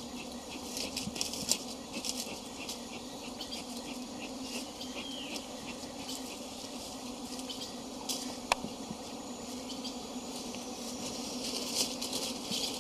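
Honey bees buzzing, a steady hum, with scattered short ticks and a sharp click about eight and a half seconds in.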